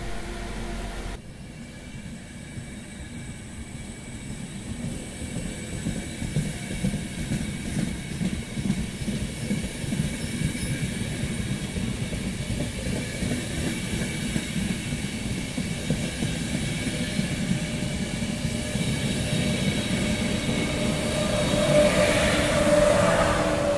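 Sleeper train coaches rolling past with a steady rumble and clatter of wheels on rail, growing louder. Near the end the Trenitalia E403 electric locomotive pushing at the rear passes at the loudest point, with a whine over the rolling noise.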